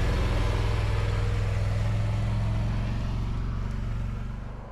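A vehicle engine running steadily with a low drone, fading somewhat near the end.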